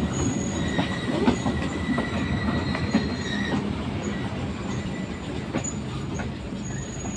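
Sri Lankan passenger train running, heard from a carriage window: a steady rumble of wheels on rails with scattered clicks over the rail joints. A high wheel squeal sounds from about one to three and a half seconds in.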